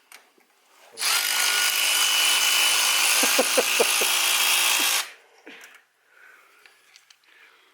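Power tool with a socket spinning a spark plug out of the engine, a steady whine for about four seconds that starts about a second in and cuts off suddenly.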